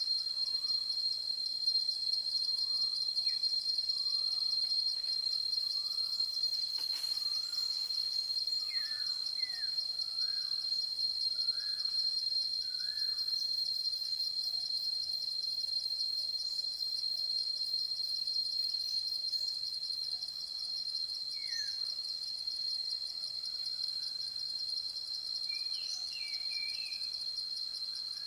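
Steady, high-pitched insect chorus, a continuous fast-pulsing trill, with faint short bird calls scattered through it and a little cluster of them near the end.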